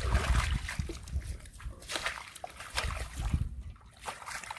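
Irregular splashing and sloshing in shallow muddy water, busiest in the first couple of seconds and thinning out near the end.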